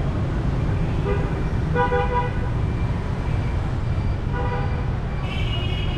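Vehicle horns honking in street traffic: four short, steady-pitched toots, the longest about half a second, over a constant low rumble of traffic.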